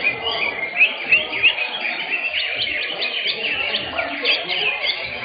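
Several caged green leafbirds (cucak hijau) singing at once in competition, a dense run of quick, overlapping chirps and sliding whistled notes.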